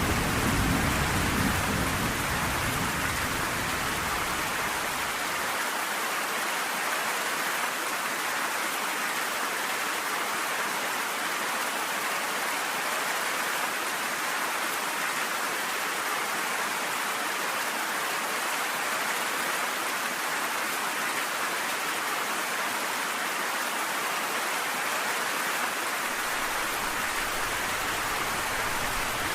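Steady heavy rain, an even hiss of drops. A low thunder rumble dies away in the first few seconds.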